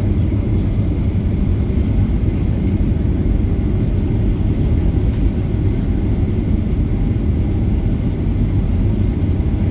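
An airliner's engines and airflow heard from inside the passenger cabin as a loud, steady low rumble.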